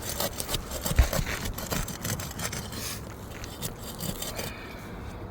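Thin pry bar scraping and prying under 3-tab asphalt shingles, with scattered clicks and a knock about a second in.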